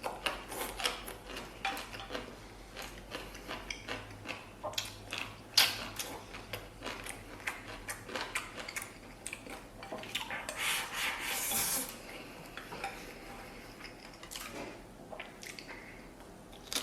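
Utensils clinking and scraping against dishes and a pot in many light, irregular clicks and knocks, with a brief soft rushing sound about ten seconds in, as braised beef is served over rice.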